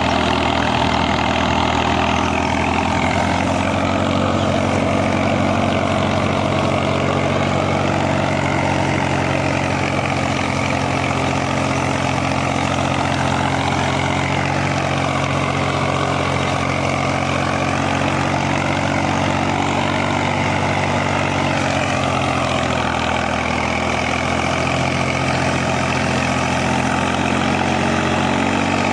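Tractor diesel engine running steadily while ploughing, its note dipping and recovering gently a few times.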